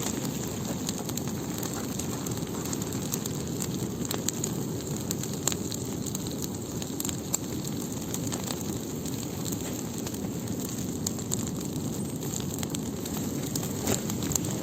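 Large bonfire of branches and plastic film burning steadily, with scattered crackles and pops over a low rushing noise.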